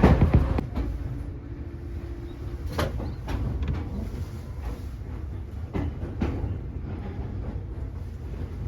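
Fujikyu Railway train running, heard from inside the passenger car: a steady low rumble with wheels clacking over rail joints in pairs, twice.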